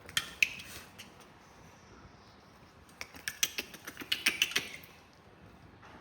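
Two bursts of quick, sharp clicking and rattling, like small hard objects being handled: a short one at the start and a longer, denser one about three seconds in.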